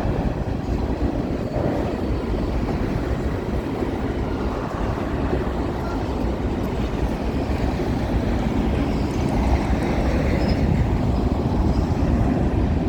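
Empty grain hopper cars of a CN freight train rolling past, a steady rumble of steel wheels on the rails.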